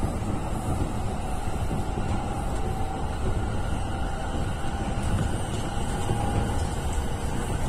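Electric commuter train heard from inside the carriage while running at speed: a steady rumble of wheels on rail, with a faint steady whine above it.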